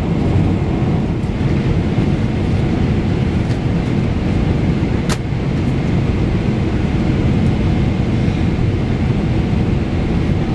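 Steady rumble of engine and airflow noise inside the cabin of a Boeing 777-300ER airliner, with one brief click about five seconds in.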